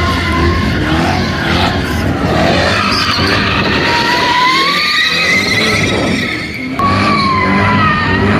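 Car tyres squealing in a long, continuous screech that wavers up and down in pitch, over the low rumble of engines. The screech eases off briefly about six and a half seconds in, then comes back.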